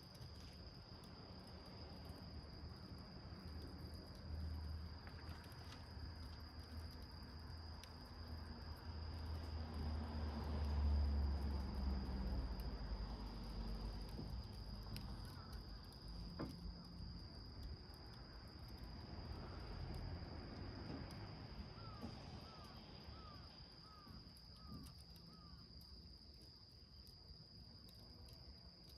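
Crickets trilling steadily on one high pitch. A low rumble swells and fades in the middle, and near the end a bird gives a quick series of six short calls.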